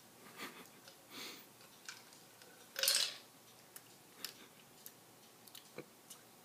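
A pet cat making small mouth noises: soft smacking clicks and short breathy puffs, with one louder hissy burst about three seconds in.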